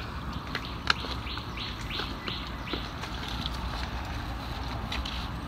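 A bird calling a quick run of about five short, high notes, roughly three a second, about a second in, over scattered sharp clicks.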